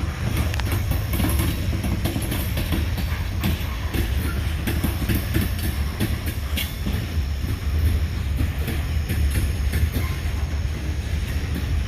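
Freight train cars rolling past at speed: a steady low rumble with frequent sharp clicks and knocks from the wheels on the rails.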